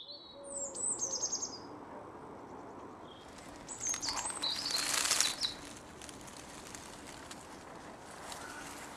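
Birds singing: short, high chirping phrases about a second in and again around four to five seconds in, with a brief rush of noise around five seconds, over faint outdoor background.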